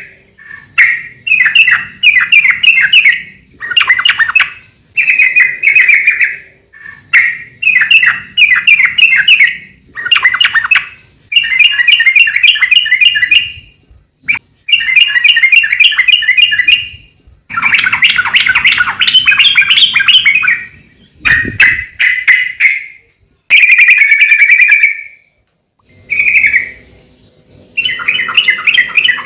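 Yellow-vented bulbul (trucukan) singing loudly and continuously: bubbly, chattering phrases of a second or two each, repeated with short pauses. A brief low thump comes about two-thirds of the way through.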